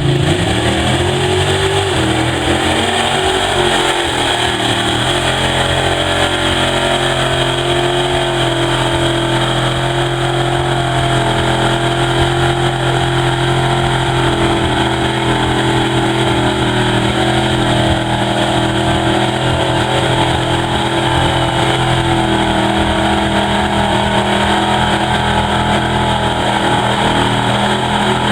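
Mega truck's engine running hard at high revs, climbing in pitch over the first few seconds and then holding at a steady, loud drone.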